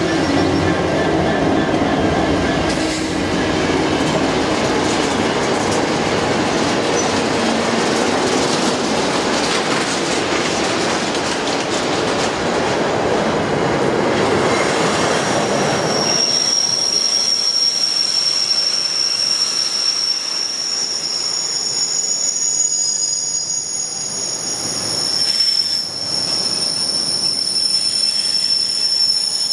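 A Class 66 diesel freight locomotive passes close by, its two-stroke engine running, followed by a rake of double-deck car-carrier wagons running over the rails. About halfway through the heavy rumble drops away, leaving the wagon wheels on the rails with a high steady squeal and a fainter, higher tone.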